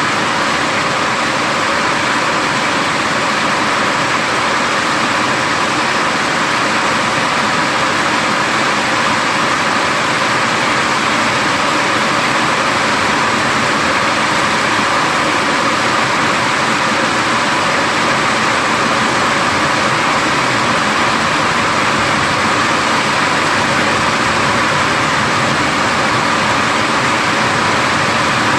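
Heavy rain falling in a steady, even hiss, with no thunderclaps.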